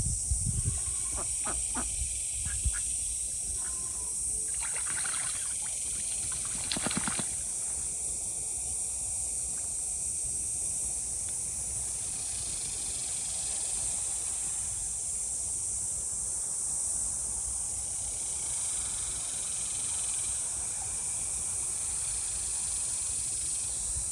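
Domestic ducks quacking in short, scattered calls, with a louder bout of quacks about five and seven seconds in.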